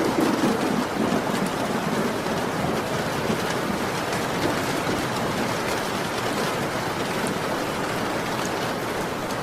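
Heavy rain falling steadily as an even hiss. A low rumble of thunder fades out within the first second.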